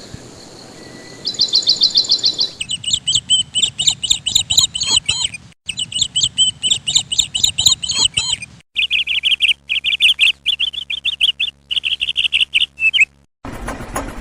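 Birds chirping in fast, repeated trills, the chirps stopping and restarting abruptly several times as if spliced from separate recordings.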